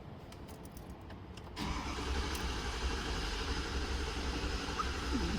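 Ford 6.7-litre Power Stroke diesel engine starting about a second and a half in and then running steadily, on a truck whose high-pressure fuel reading is off.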